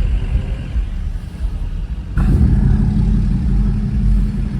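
Motor vehicle engine rumble, a deep low running sound that jumps abruptly louder about two seconds in.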